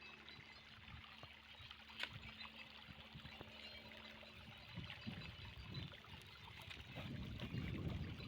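Flood-irrigation water flowing and trickling, faint and steady, with a sharp click about two seconds in and low rumbling that grows near the end.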